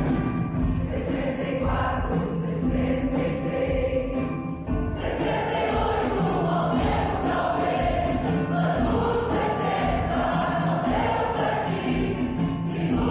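Choir singing with accompaniment and a light, steady high jingling beat. It drops back briefly about five seconds in, then returns fuller.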